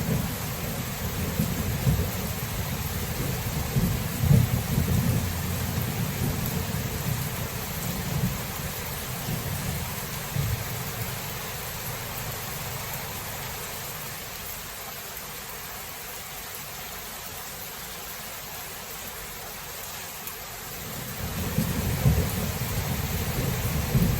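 Thunderstorm: steady rain hissing throughout, with rolling thunder rumbling low in the first several seconds, fading away to leave just the rain for a while, then rumbling up again near the end.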